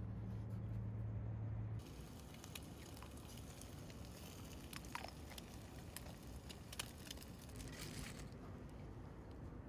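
A steady low hum cuts off suddenly about two seconds in, followed by a wood fire crackling with scattered sharp pops.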